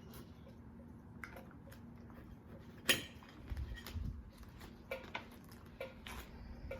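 Scattered light clicks and knocks of dishes and utensils being handled at a table, with one sharper click about three seconds in, over a faint steady hum.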